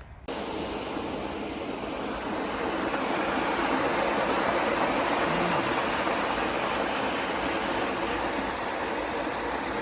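Steady rush of running water, like water pouring through a weir or sluice. It starts abruptly and grows a little louder toward the middle.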